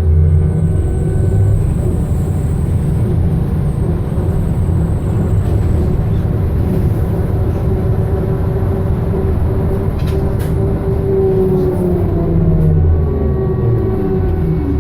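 BKM-221 trolleybus riding along, heard from on board: a steady low rumble of the running gear with a constant hum. Near the end the electric drive's whine tones fall in pitch as the trolleybus slows.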